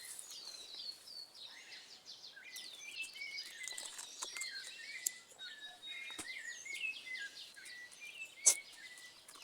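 Wild birds chirping and singing, many quick short chirps overlapping. A few sharp clicks stand out, the loudest one near the end.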